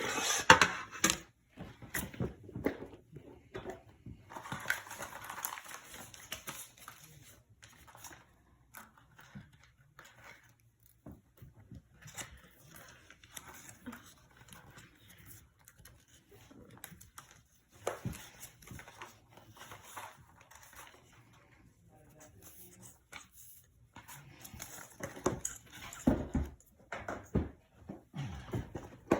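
Quiet tabletop handling sounds: paper rustling, with scattered small clicks and knocks, including a longer rustle about five seconds in and a cluster of louder knocks near the end.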